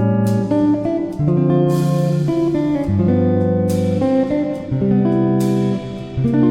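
Background music: a plucked guitar playing chords, each chord struck and changing about once a second.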